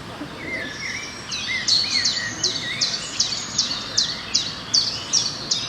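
Birdsong: a bird repeating a sharp, high chirping note about three times a second, starting about a second and a half in, over softer lower warbling notes from other birds.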